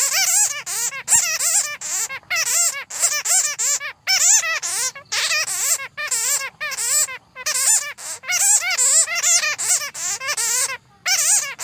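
Bats chattering: a dense run of shrill squeaking calls in quick bursts, each call wavering up and down in pitch, with brief pauses between bursts.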